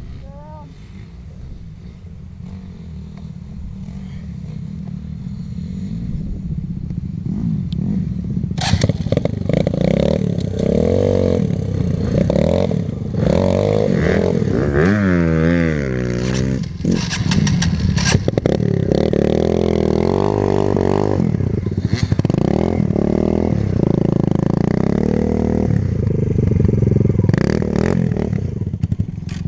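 Dirt bike engine running and getting louder over the first several seconds, then revving up and down repeatedly as the bike is ridden hard.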